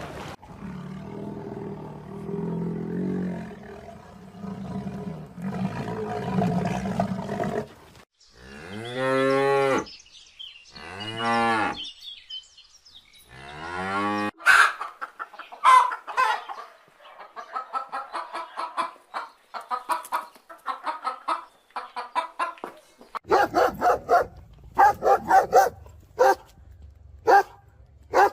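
A cow mooing twice in long, drawn-out calls, followed by chickens clucking in a rapid run of short calls. Near the end a louder series of quick pulsing calls from another animal begins.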